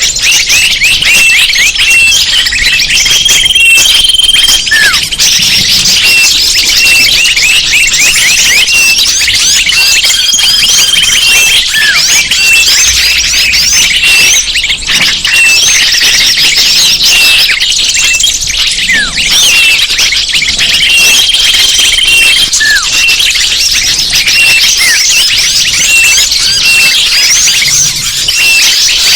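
A dense chorus of many small songbirds chirping and twittering at once, made as a bird-lure call recording. A short high note repeats throughout, and a few long whistled notes are held for a second or two.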